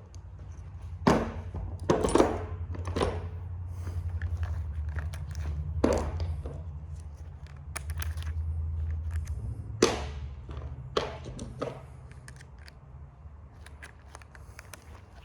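Scattered knocks and clicks of hand tools against the metal panels and fasteners of a printer being taken apart, over a low rumble that fades out about twelve seconds in.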